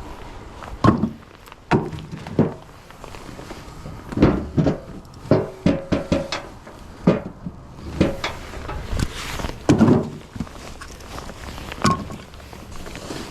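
Pieces of split firewood knocking and clattering as they are tossed and stacked, a string of irregular wooden thunks, one or two a second.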